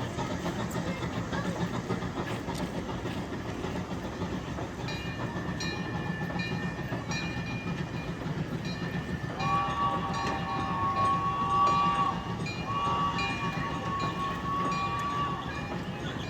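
Zoo train passing with a steady low engine rumble. A bell rings at an even pace from about five seconds in, and the train sounds two long whistle blasts in the second half.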